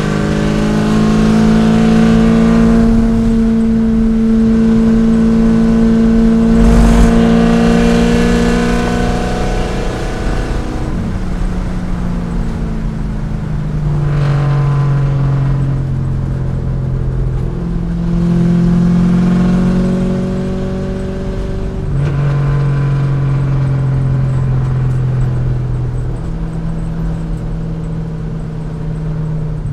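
C5 Corvette's V8 engine under hard driving: the engine note holds and climbs, then drops in steps several times as the car shifts and brakes for corners. A single sharp thump about 7 seconds in.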